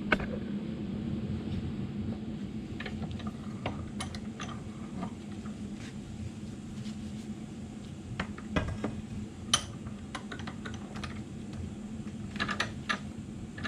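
Scattered light clicks and taps of small metal parts and hand tools being handled while working on a driveshaft universal joint, a few sharper ones near the end, over a steady low hum.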